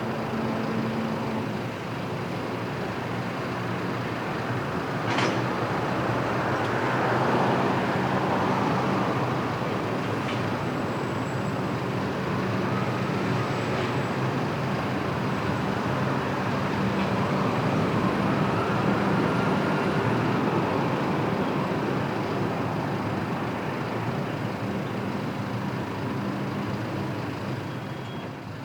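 Freight train running past on the line, a steady rolling rumble of wheels on rail with a few sharp clanks.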